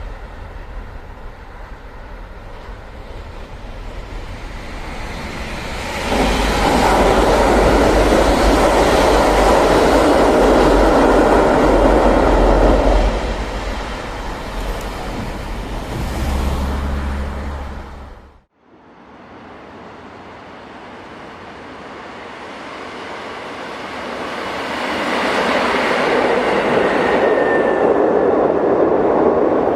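Train running close by: a loud rumble of wheels and running gear for about seven seconds that then fades. After a sudden break, a second train pass builds up and is loud near the end.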